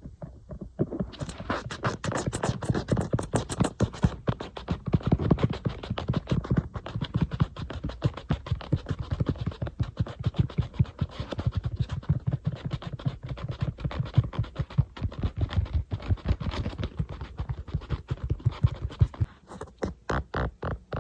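Fingernails rapidly tapping and scratching on an iPad, about ten short strokes a second, turning brighter and crisper about a second in.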